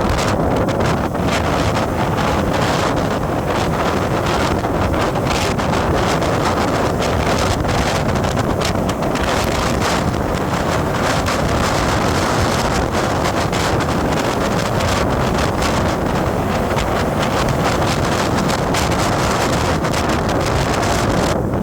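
Steady wind buffeting the microphone over the continuous noise of a moving vehicle on the road.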